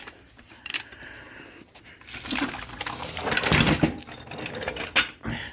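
Handling of metal garage equipment: a few light clicks, then a few seconds of rattling, scraping clatter, with a sharp metallic clank near the end.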